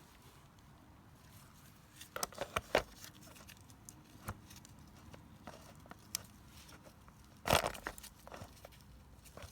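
Clicks and clinks of small metal carburetor parts and hand tools being handled and set down. A quick cluster of clinks comes about two seconds in, and a louder clatter about seven and a half seconds in.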